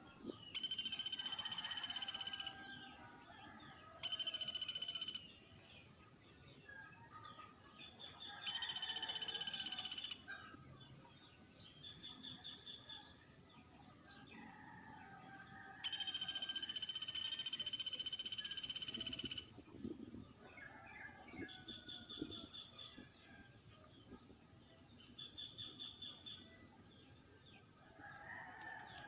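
Birds chirping in several short bouts of a few seconds each, over a steady high-pitched insect drone.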